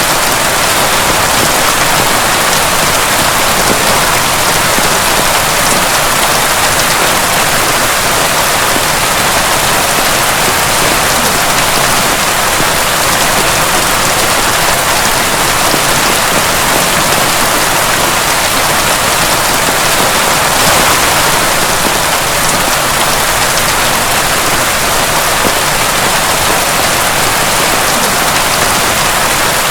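Heavy rain falling steadily, a dense even patter of drops on a hard surface.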